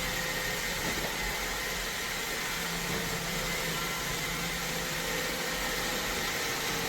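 iRobot Roomba Vac Essential (Q0120) robot vacuum running: a steady whirring noise with a faint steady whine.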